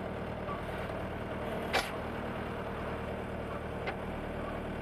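Skid steer engine idling steadily, with a brief sharp clack about two seconds in and a faint click near the end.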